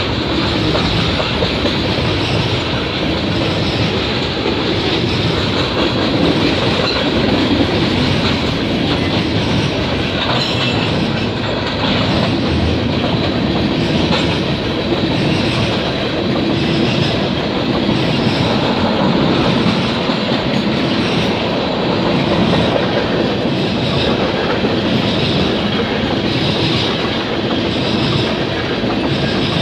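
Freight train's tank cars rolling past close by, steel wheels clattering and rumbling on the rails in a steady, loud stream.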